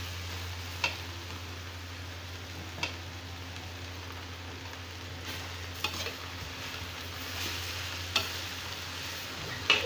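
Chopped radish and radish leaves sizzling in a metal kadhai while a slotted metal spatula stirs them, with about five sharp clicks of the spatula against the pan.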